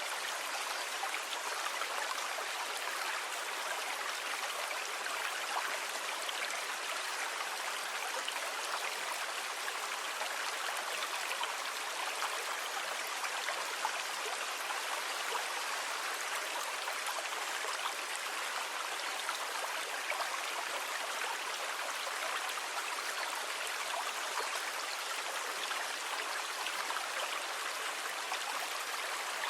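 Steady rushing and fizzing of water, an even wash of sound with no swell or break of individual waves.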